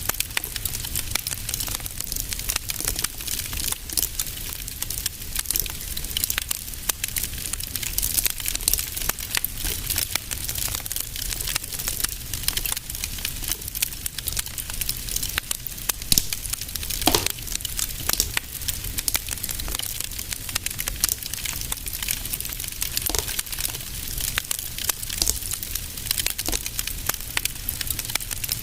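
Wood fire in a fireplace crackling steadily, with dense small pops and snaps over a low rumble of the flames. About two-thirds of the way through there is a short falling whistle.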